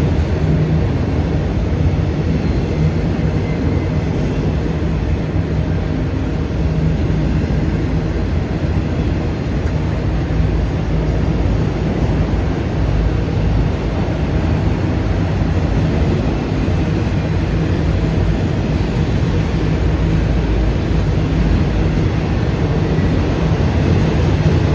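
CSX freight train with autorack cars rolling past, a steady, even rumble of wheels on rails with a low hum underneath.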